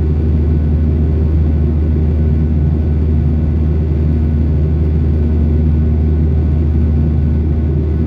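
Cabin noise inside a Boeing 737-800: a steady, loud, low rumble from its CFM56-7B jet engines and the rushing air, with a few steady low tones.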